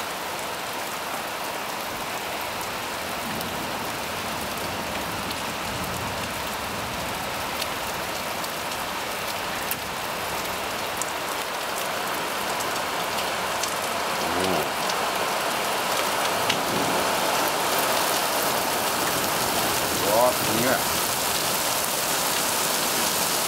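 Heavy rain pouring down steadily in a thunderstorm, growing slowly louder as the downpour intensifies.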